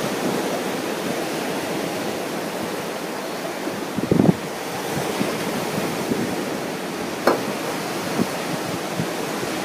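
Ocean surf washing steadily onto the beach, with wind buffeting the microphone in a few short thumps, the strongest about four seconds in.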